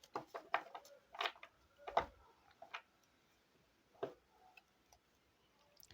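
Tarot cards being handled on a table: a quick run of short taps and card flicks over the first three seconds, then one more tap about four seconds in.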